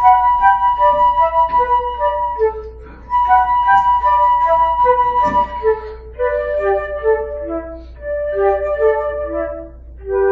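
Two concert flutes playing a slow duet in two parts. One flute holds long high notes while the other moves down through a stepwise melody, with brief breaths between phrases.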